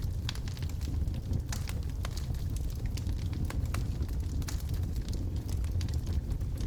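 Wood logs burning in a fireplace: a steady low rumble of the fire with frequent sharp, irregular crackles and pops.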